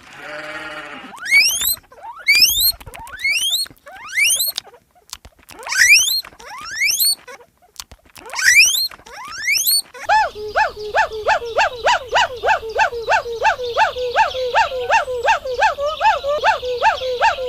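Animal calls: about seven separate calls that each sweep sharply upward in pitch, then, after a cut, a fast even run of short repeated calls, about three or four a second.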